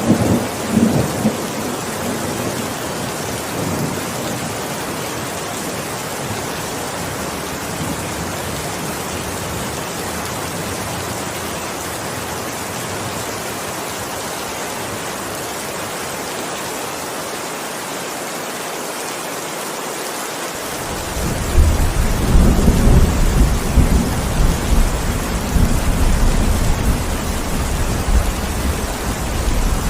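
Steady heavy rain falling, with the tail of a thunder roll fading in the first couple of seconds. About two-thirds of the way through, a deep rumble of thunder breaks in suddenly and keeps rolling.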